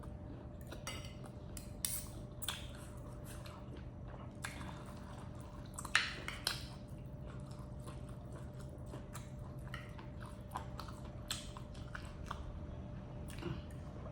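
A person eating spicy stir-fried basil shrimp and squid with rice: chewing and mouth noises with scattered small spoon-and-plate clicks, and a louder short burst about six seconds in, over a faint steady hum.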